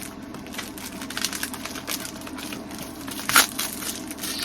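Plastic packaging crinkling and crackling as snack items are pulled out of a package, with one sharper, louder crack about three and a half seconds in.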